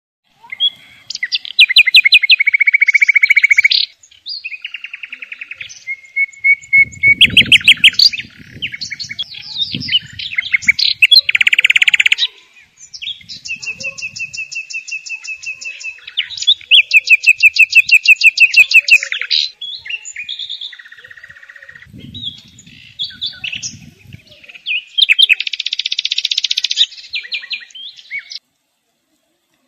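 Songbird singing loudly in a long run of varied phrases: fast trills, rapid strings of repeated notes and buzzy bursts, with short pauses between them. A low rumble sits under the song twice, and the song stops about two seconds before the end.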